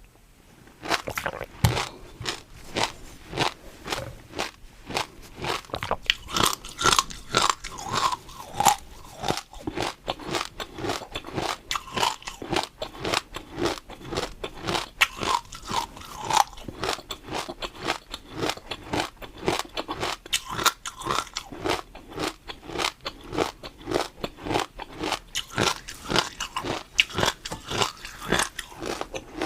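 Close-up eating sounds: crunchy food being bitten and chewed, a quick run of sharp crunches several times a second that keeps going after the first second.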